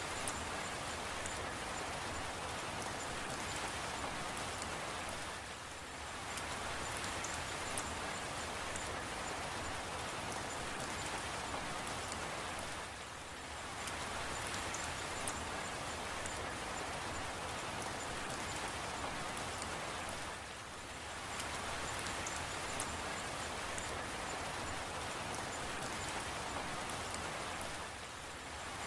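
Steady rain falling, a dense even hiss with fine drop ticks on top. The hiss dips briefly about every seven seconds.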